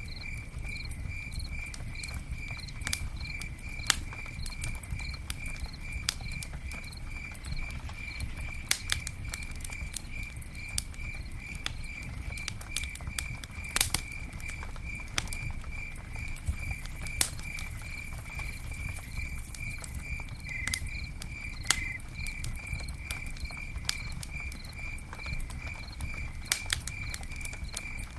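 Campfire burning with a low rumble and frequent sharp crackles and pops, a few louder than the rest. Over it a cricket chirps steadily, about two chirps a second.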